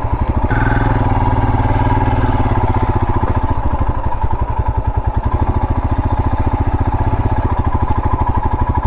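Royal Enfield Himalayan's 411 cc single-cylinder engine running at low speed as the motorcycle is ridden, with steady, evenly spaced firing pulses. The engine note changes about half a second in.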